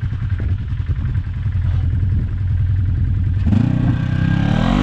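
Off-road vehicle engine running at a low, steady idle, then revving up about three and a half seconds in as it accelerates away.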